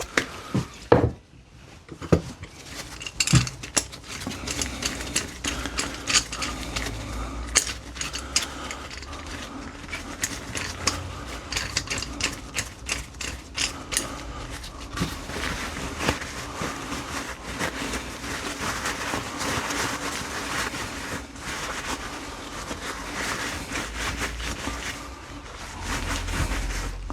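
Handling and rubbing a steel G-clamp while cleaning and oiling it. Many small clicks and knocks sound over a steady low rubbing background.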